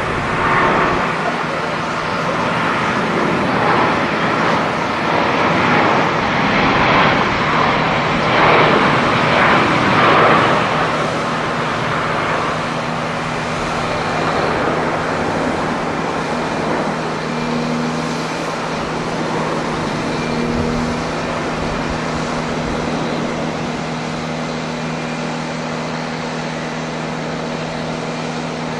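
Jet airliner engine noise at an airport, loudest in the first ten seconds and then easing off to a steady rush, with a steady low hum from about eleven seconds in.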